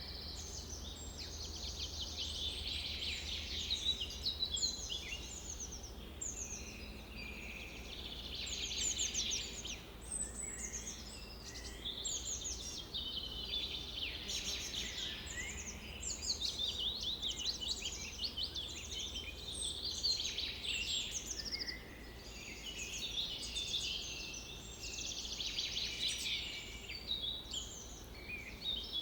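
Songbirds singing, several at once: a continuous, overlapping chorus of rapid trills and chirps, over a faint steady low rumble.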